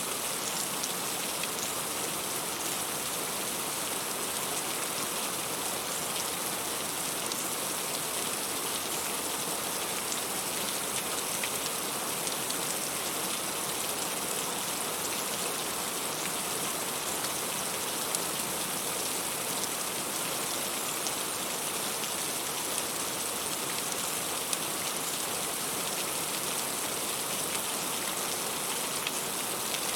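Heavy rain falling steadily: an even hiss of rain with scattered ticks of single drops striking a surface.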